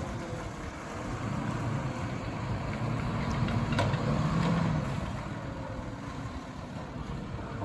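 Garbage truck's diesel engine running, its pitch rising and falling, with a sharp metallic knock about four seconds in.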